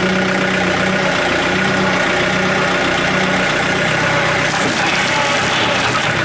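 John Deere compact tractor-loader's diesel engine running steadily, its low hum easing a little about halfway through.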